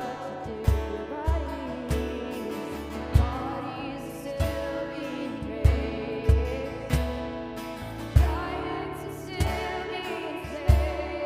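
Live worship band playing a slow song with singing over it, a deep kick drum beating in repeating groups of three.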